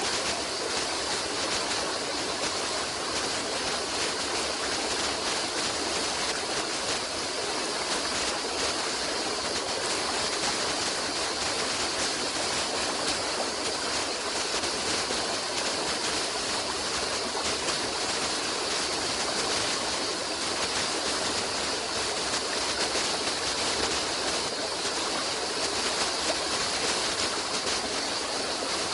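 Running water of a stream, a steady rushing hiss with no breaks or changes.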